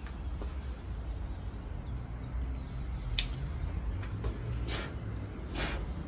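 Small birds chirping a few times, about three seconds in and twice near the end, over the steady low rumble of city traffic.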